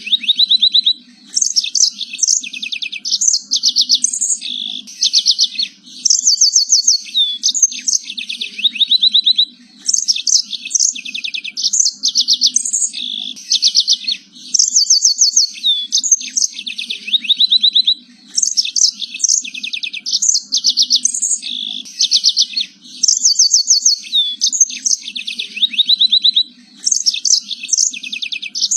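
Domestic canary singing nonstop, with long rolling trills and rapid runs of repeated notes in phrases a few seconds long, separated by brief pauses. A faint low hum runs underneath.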